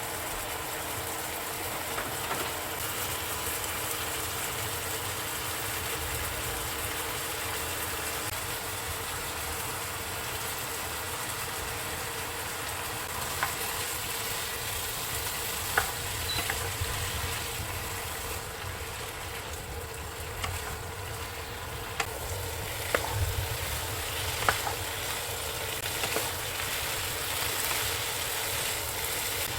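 Food frying in a pan: a steady sizzling hiss, with a few sharp clicks and taps in the second half.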